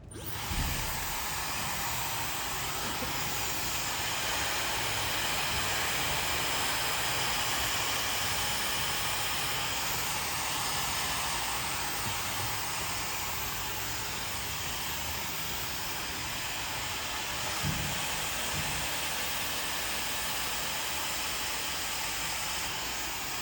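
Handheld hair dryer switching on and running steadily, a continuous rushing hiss of blown air.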